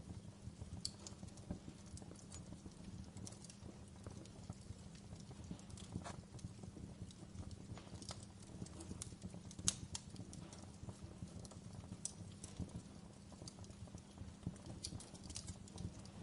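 Wood fire crackling in a fireplace: irregular sharp pops and snaps over a low steady rumble, with one louder pop about ten seconds in.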